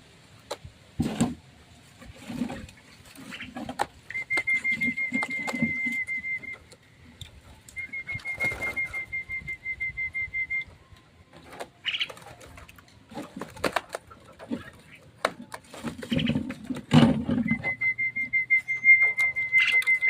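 Birds calling: a fast, even trill of notes at one unchanging pitch comes three times, each about two to three seconds long. Between the trills come short calls and scattered clicks.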